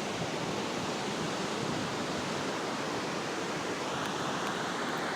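Steady rushing of ocean surf, an even hiss without distinct breaks.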